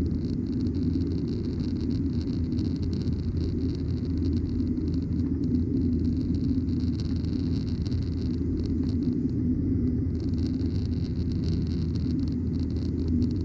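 Steady rumble of a Boeing 737-900ER's CFM56-7B engines and the rushing airflow, heard inside the passenger cabin in flight shortly after takeoff, with a steady hiss above the low drone.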